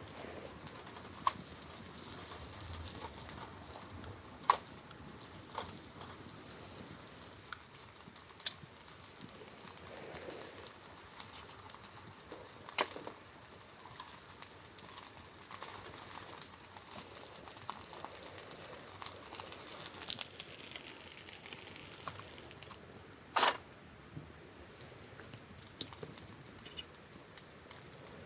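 Food cooking over a wood fire: a faint steady sizzling hiss with scattered sharp pops and crackles, the loudest about 23 seconds in.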